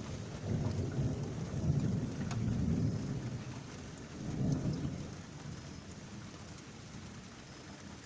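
Thunder from a cloud-to-ground lightning strike rumbling in several swells, then fading away over the last few seconds, with steady rain falling throughout.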